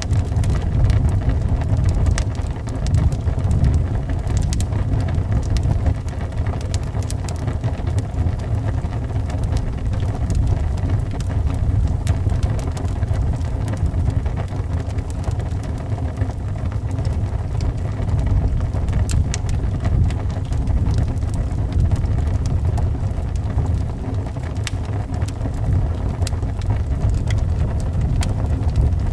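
Steady low rumble of wind howling around a house, with scattered sharp pops and crackles from a wood fire burning in a fireplace.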